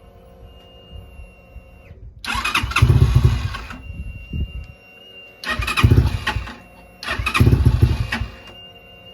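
Swapped-in Templar X 250 engine in a Vitacci GTX starting up, in three loud bursts of running, each about one to one and a half seconds long, with the level dropping back between them.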